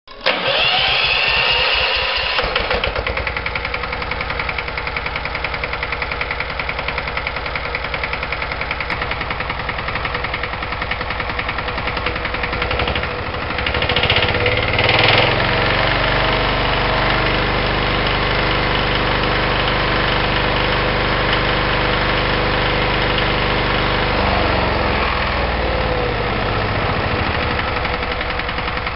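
Hatz E780 single-cylinder air-cooled diesel engine running with a steady, rapid knocking beat. About halfway through it speeds up and gets louder, then drops back to its slower speed near the end.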